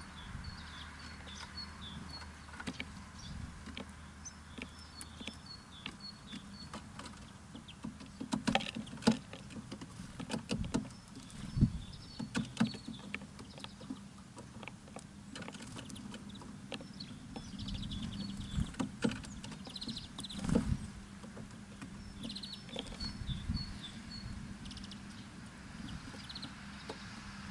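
Small birds at a feeder: clusters of brief high chirps, with scattered sharp taps and clicks as they peck and land, a few louder ones around the middle and about two-thirds of the way through.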